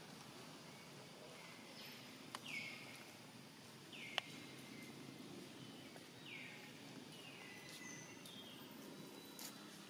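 Faint outdoor ambience with a bird giving a repeated high call, a quick drop in pitch then a short held note, about every one and a half to two seconds. A few sharp clicks cut in, the loudest about four seconds in.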